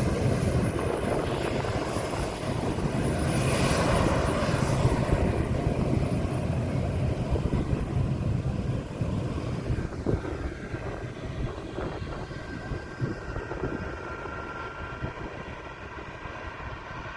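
Aircraft engine noise, a steady roar that is loudest over the first few seconds and then slowly fades.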